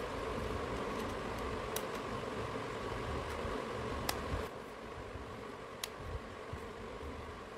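Steady hum and hiss with a few sharp, separate clicks; the hum drops a little about halfway through.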